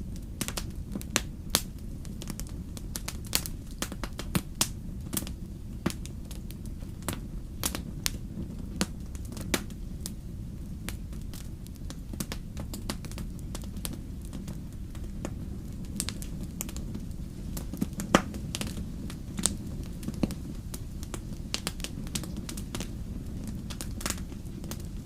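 Wood fire crackling in a fireplace: irregular sharp pops and snaps, the loudest about eighteen seconds in, over a steady low rumble.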